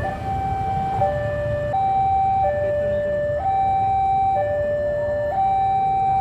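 Level-crossing warning alarm sounding, a two-tone signal alternating between a high and a low note about once a second, over a low rumble.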